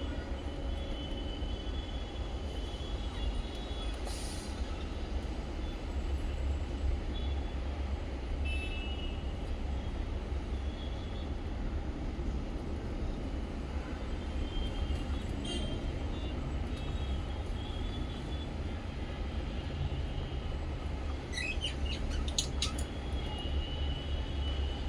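Pet budgies and lovebirds giving scattered faint chirps over a steady low rumble.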